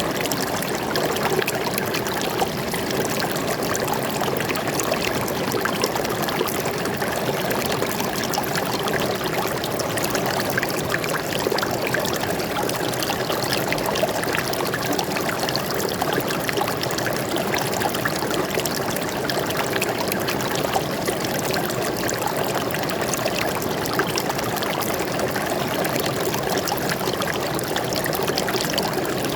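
A stream flowing steadily over rocks, an even rushing with fine trickling and splashing.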